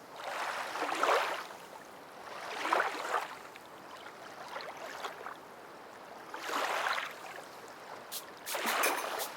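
Ocean waves washing in and drawing back, four swells a couple of seconds apart, with a few short crackles near the end.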